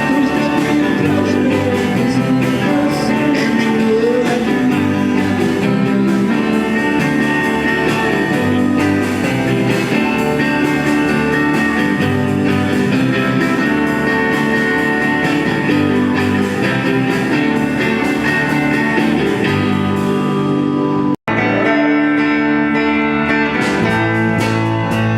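A band playing guitar-led music. About 21 seconds in, the sound drops out for an instant, then music starts again with a changed sound, like a cut to another recording.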